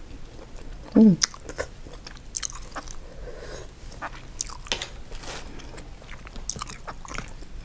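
Close-miked eating sounds: a person biting and chewing seafood-boil food, with scattered wet clicks and crunches, and one louder short sound about a second in.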